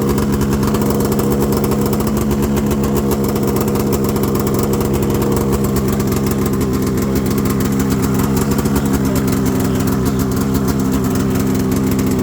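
Snowmobile engine idling steadily after a cold start, its first run in a year.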